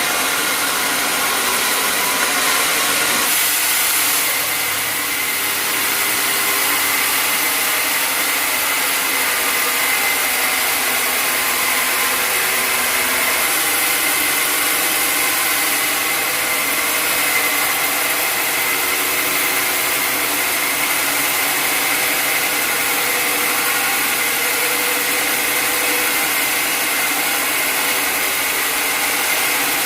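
Sawmill machinery running steadily: a constant mechanical noise with a steady high whine.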